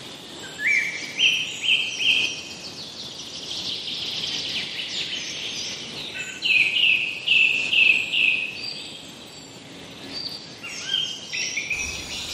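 Birds singing: a few stepped whistled notes about a second in, and a run of about five short, falling chirps roughly two to three a second around the middle, over a faint high background hum.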